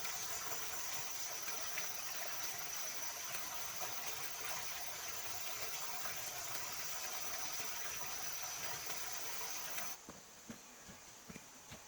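Steady rushing of running water with a thin high whine held above it; it stops abruptly about ten seconds in, leaving a few faint ticks.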